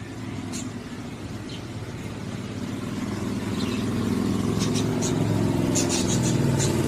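Budgerigars giving short high chirps, a few at first and then a quick cluster near the end, over the steady hum of a motor vehicle's engine that grows louder partway through.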